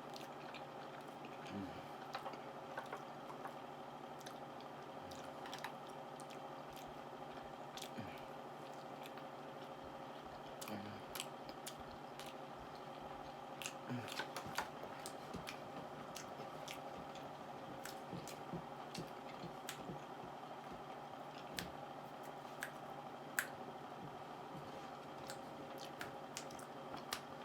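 A person chewing and eating pasta close to the microphone: Domino's chicken Alfredo, with soft wet mouth sounds and scattered small smacks and clicks. A faint steady hum runs underneath.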